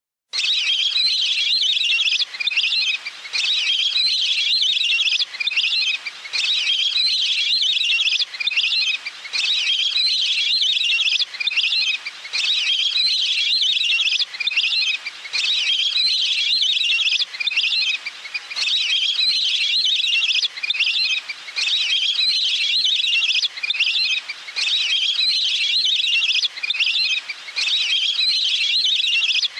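Recorded calls of a water bird that the Thai title calls 'nok pet nam' (a water duck), played as a lure. The calls are rapid high trills in phrases of about two seconds, with short breaks between them, repeating over and over.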